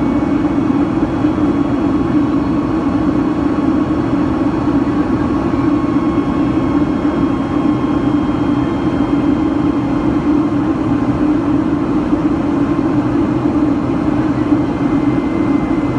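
Boeing 757-200's Rolls-Royce engines running steadily in flight, heard inside the cabin as a constant low roar with a hum and thin whining tones that drift slightly lower.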